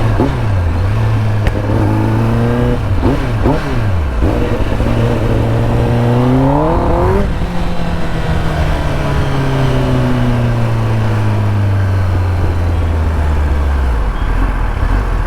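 Motorcycle engine under way: quick throttle blips about three seconds in, then revs climbing until they cut off sharply about seven seconds in, after which the revs fall away slowly.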